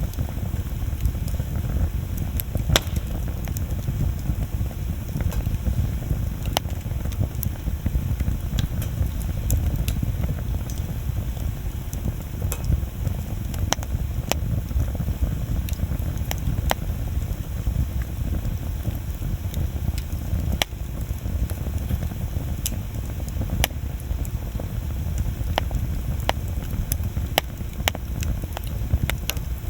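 Wood bonfire burning, with scattered sharp crackles and pops at irregular intervals over a steady low rumble.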